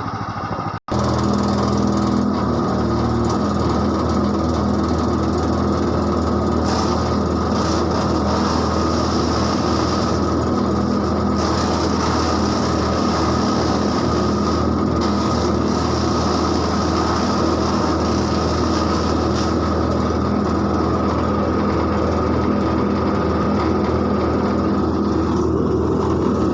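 Jaguar wood chipper's four-stroke engine running steadily at speed, after the sound cuts out for an instant about a second in.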